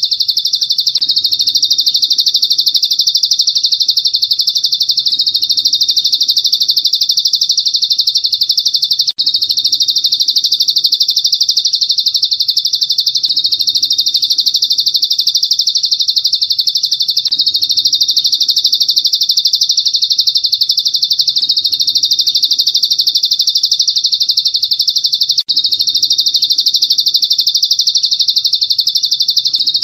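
A masteran recording for training cage songbirds: a high, very rapid trill held on without pause, breaking off for an instant twice.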